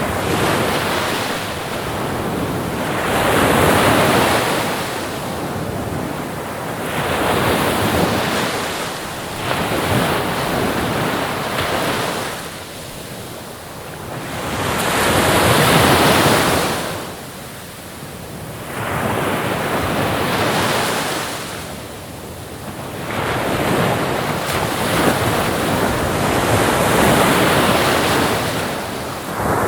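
Ocean surf: waves breaking and washing in and out, swelling and fading every few seconds, with some wind.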